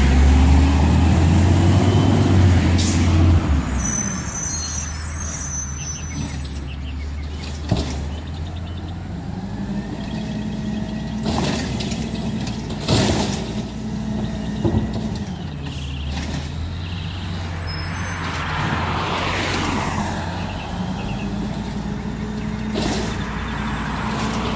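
Garbage truck engine running, revving for the first few seconds and then settling to a steady idle. A high squeal sounds a few seconds in, with air-brake hisses and several sharp metallic clanks.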